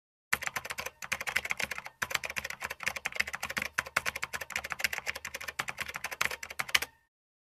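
Rapid typing on a computer keyboard: a dense run of key clicks lasting about six and a half seconds, with two short pauses in the first two seconds, starting and stopping abruptly out of digital silence.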